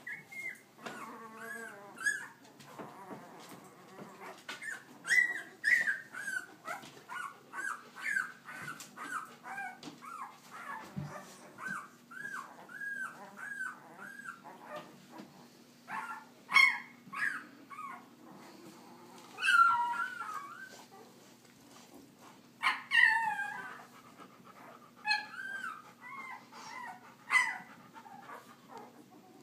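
Young puppies whimpering and squealing: a long run of short, high-pitched cries, about two a second, with a few louder squeals near the end.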